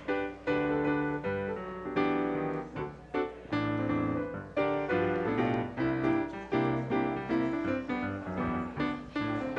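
Piano music: chords and melody played on a piano, with notes struck in a steady succession.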